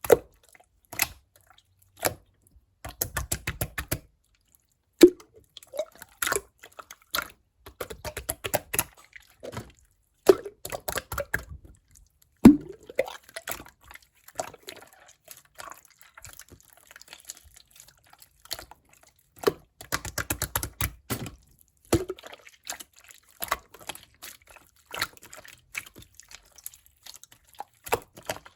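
Clear slime squished and pressed by hand: wet, sticky clicks and pops, with several short runs of rapid crackling clicks.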